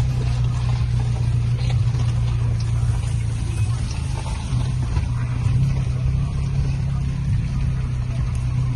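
Suzuki Jimny's engine running at low, steady revs, a constant low drone.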